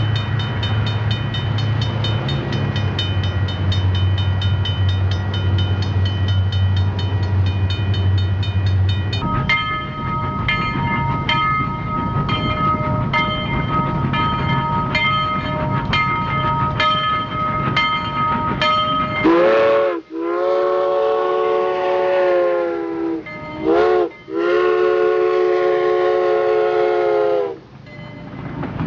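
Added train sound effects: a train running with a rhythmic clatter over a steady hum, changing about nine seconds in to a steadier running sound with a ringing tone and occasional rail clicks. From about two-thirds of the way in, a train whistle sounds several blasts, short and long, and these are the loudest part.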